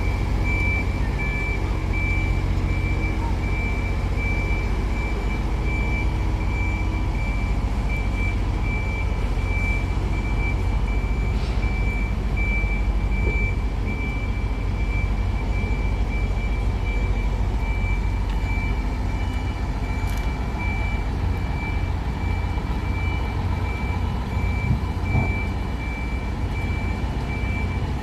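A vehicle's warning beeper sounding steadily, a high beep repeating at an even pace, over a steady low rumble of a vehicle moving trams during a shunt.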